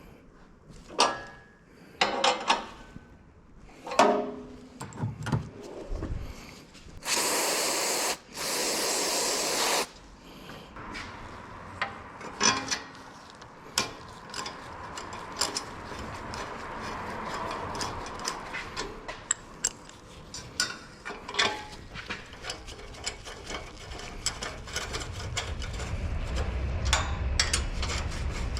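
Tools and metal parts clicking and knocking, then two loud hissing bursts of aerosol parts cleaner about seven and eight and a half seconds in. Light ticks and taps follow over a low rumble that grows louder near the end.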